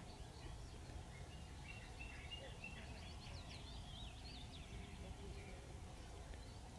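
Faint birdsong: a run of chirps and short rising whistled notes from about one to five seconds in, over a low steady outdoor background noise.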